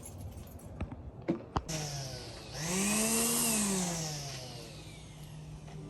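Lawn mower starting up: a few clicks, then the motor speeds up and falls back before settling into a steady run.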